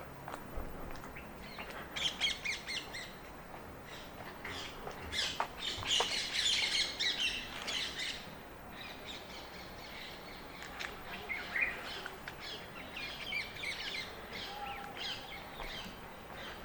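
Birds chirping and calling in quick bursts, busiest about five to eight seconds in, over a faint steady outdoor background.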